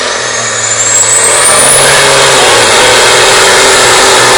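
Competition pulling truck's engine running flat out under load as it drags the sled, very loud, with a high whine that rises over the first two seconds while the level climbs and then stays at full volume.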